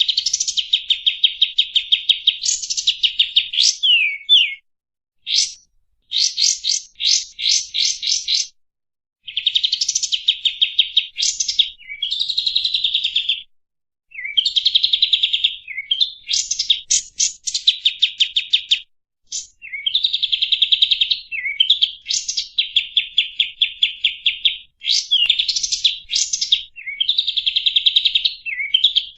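Songbird singing a string of fast rolling trills, each a one-to-three-second run of rapid repeated notes with short breaks between, the 'rol speed' song used as masteran tutor song for training white-rumped shamas.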